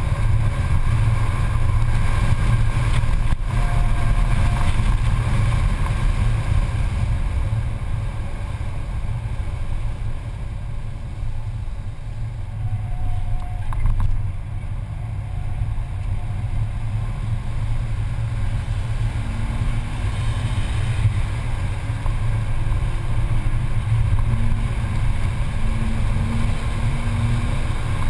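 Mercedes-Benz C280's engine heard from inside the cabin at speed on track, a steady low drone mixed with road and wind noise. It eases off through the middle and pulls harder near the end, its note rising.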